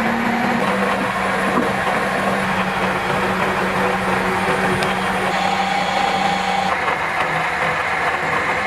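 Repaired water-damaged electric motor running steadily with a steady hum, its tone shifting slightly about two-thirds of the way in.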